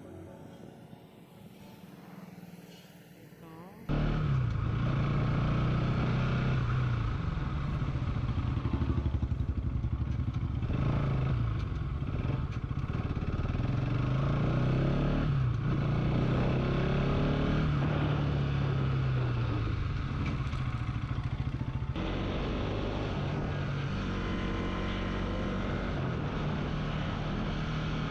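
Bajaj Pulsar NS200 single-cylinder engine running while being ridden, mixed with road and wind noise. Its pitch rises and falls repeatedly as the rider changes speed and gears. It comes in suddenly about four seconds in, after a quieter start.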